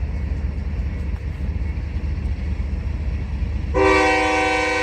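Low rumble of a slowly moving train; about four seconds in, the train's horn starts blowing, a loud steady chord of several tones, sounded as a warning to people up ahead.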